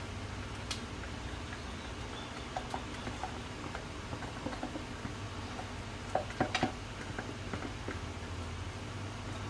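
Scattered light clicks and taps of plastic kitchenware as cake batter is poured and scraped into a Tupperware Stack Cooker, with a quick cluster of sharper clicks about six seconds in, over a steady low hum.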